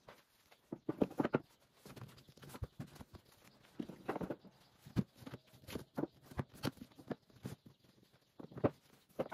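Household items being handled and set down: an irregular series of light knocks and clicks mixed with short bursts of rustling.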